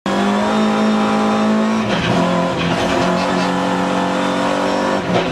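Alfa Romeo 145 Cup race car's engine heard from inside the cabin, running hard at high revs on a steady note. About two seconds in its pitch drops sharply, and then it holds steady at somewhat lower revs.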